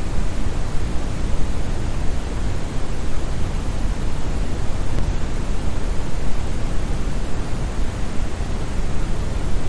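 Steady brown noise: a continuous, unchanging deep hiss weighted toward the bass, like a distant waterfall.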